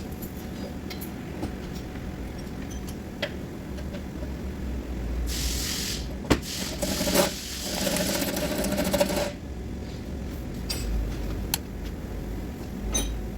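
Hand work on a car: scattered clicks and knocks, a short hiss about five seconds in, and a longer hissing noise with a steady hum from about seven to nine seconds in.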